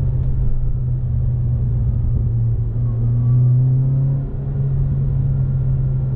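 Alfa Romeo 159 1.8 TBi turbo four-cylinder with a full custom exhaust, heard from inside the cabin as a steady low engine drone at cruising speed. It swells slightly about three seconds in and dips briefly just after four seconds.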